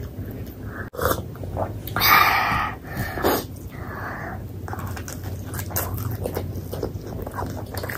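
Close-miked eating: wet chewing and mouth smacking as short clicks over a steady low hum, with a louder, noisier mouth sound about two seconds in and a shorter one a second later.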